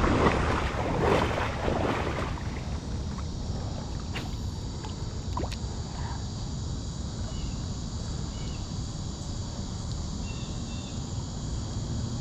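Water splashing and sloshing for about the first two seconds, then the steady rush of creek water with a few faint clicks and faint chirps.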